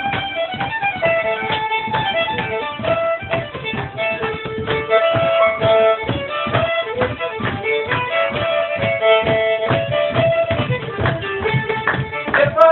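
Fiddle playing an instrumental break of an old-time mountain tune, held and moving melody notes over a steady rhythmic accompaniment.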